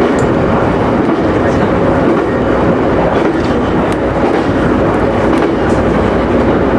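Electric local train running at steady speed, heard from inside the front car: a constant rumble of wheels on rails with motor hum and a few faint clicks.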